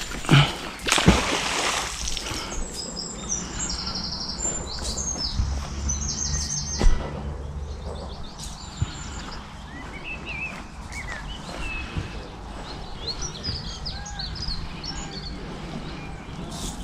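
Small birds singing and chirping, with repeated trills and short calls. Near the start come a couple of sharp knocks and a brief splash-like rush of noise, the loudest moment.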